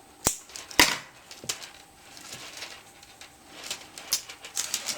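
Handling noises: two sharp knocks about a quarter and three-quarters of a second in, then scattered light clicks and rustles, busiest near the end.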